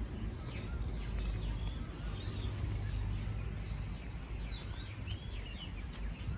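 Small birds chirping in trees, many short high calls scattered throughout, over a steady low outdoor rumble.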